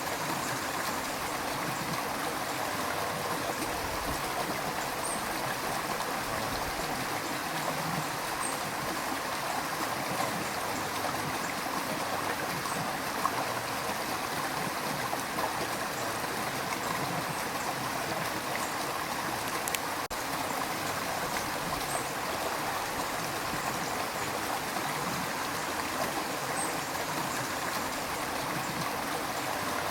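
River water rushing and gurgling steadily over rocks, a continuous even rush with no break.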